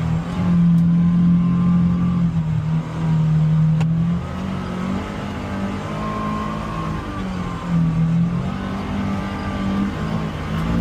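Polaris Xpedition UTV engine running under load, its pitch rising and falling several times as the throttle is worked. A single sharp click sounds about four seconds in.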